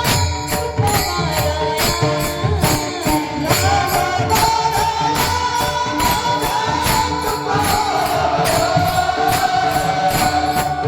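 Kirtan music: a voice holding long notes that glide up and down, over hand cymbals and drums keeping a steady fast beat.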